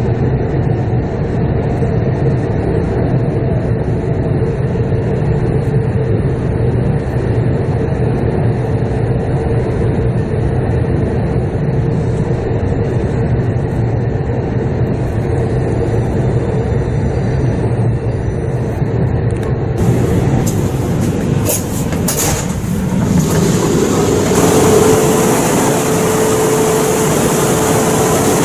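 Shinkansen train running, heard from inside the carriage as a steady rumble and rush. About 20 seconds in the sound changes, with a couple of sharp knocks, then a steady hum tone over brighter noise.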